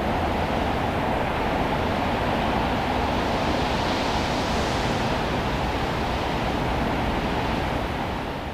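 Steady, dense rushing roar of a torrent of water, mud and debris, easing off near the end.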